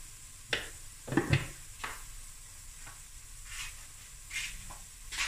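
Diced vegetables frying in oil in a stainless steel pot, with a faint steady sizzle and scattered short crackles and pops. There is a louder knock just over a second in.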